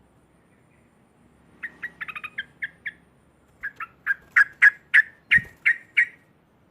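Yellow-vented bulbul (trucuk) chattering: a quick run of short calls, then a louder series of about ten sharp notes, roughly four a second.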